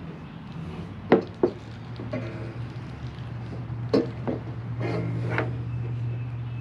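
Tool and part-handling noise from a riding-mower deck being worked on: a handful of sharp knocks and clinks, about five in all, over a steady low hum that grows a little louder about two seconds in.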